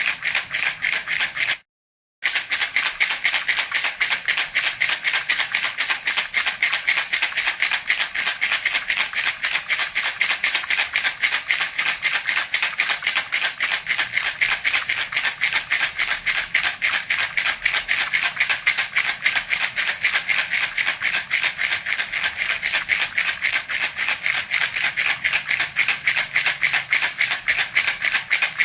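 Baby's rattle (jhunjhuna) shaken steadily and rapidly in an even rhythm, a bright beady rattle. It drops out for about half a second roughly two seconds in, then carries on unchanged.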